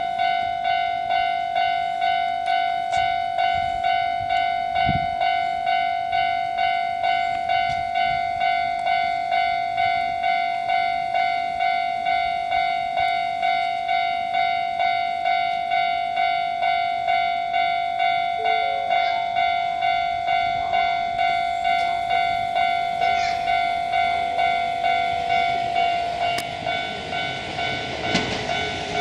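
Electronic warning bell ringing steadily at about two and a half strokes a second as a train approaches the station. A train's rumble starts to build near the end.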